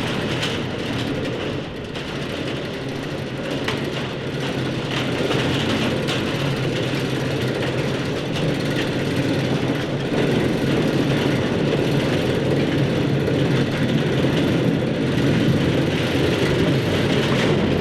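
A steady mechanical rumble with continuous rattling and clatter, like heavy machinery or a train running. It lasts about eighteen seconds, begins suddenly, and fades out at the end.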